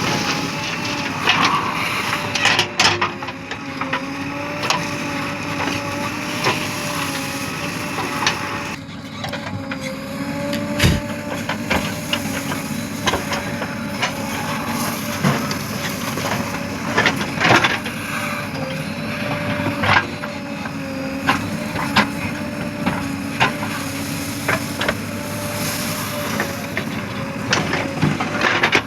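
Diesel engine of a backhoe loader running steadily under working load, its pitch wavering slightly, with sharp knocks and clunks every second or two.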